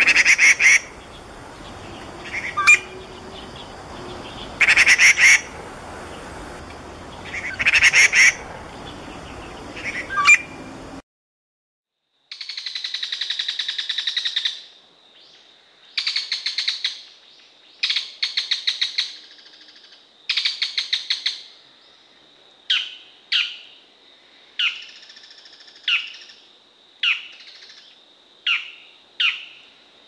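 Gray treepie giving loud, harsh calls every few seconds. After a short break, a brown shrike's harsh chattering calls: rapid rattling runs at first, then shorter calls about once a second near the end.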